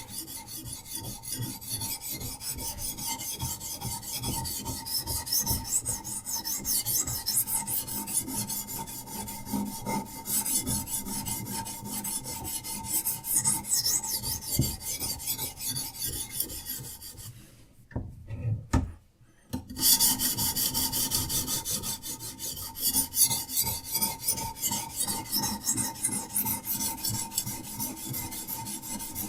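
Diamond sharpening stone on a Hapstone RS guided sharpener rasping along a knife's edge in quick back-and-forth strokes. The strokes break off for about two seconds roughly two-thirds of the way through, with a light knock or two, then carry on.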